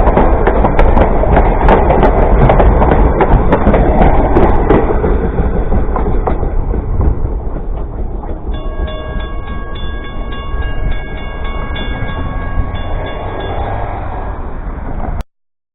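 Railroad cars rolling past close by, loud with clicking wheels over rail joints, fading after about five seconds. Later a steady ringing tone sounds in a repeating pattern as the train sound dies away. It cuts off abruptly near the end.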